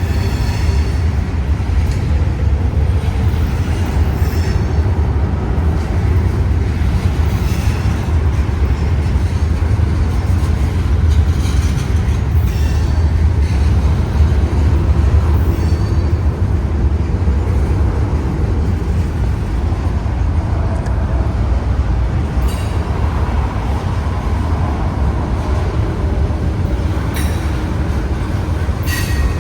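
Freight train rolling past slowly, a steady low rumble of cars on the rails, with a few short sharp clicks from the wheels in the second half.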